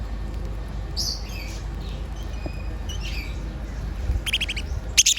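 Birds squabbling: a few short high calls, then quick runs of harsh, rapidly repeated squawks near the end.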